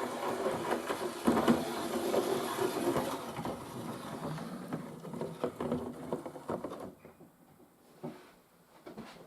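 Model diesel-electric shunting locomotive running along the track straight out of the box: a steady whirring with scattered clicks, which the owner likens to the sound of a real diesel-electric shunter. It fades and dies away about seven seconds in.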